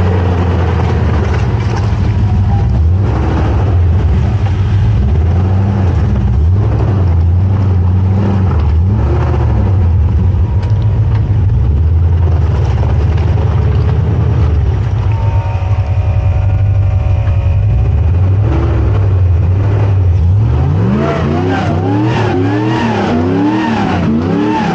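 Car engine running steadily under load. In the last few seconds an engine revs up and down quickly several times in a row.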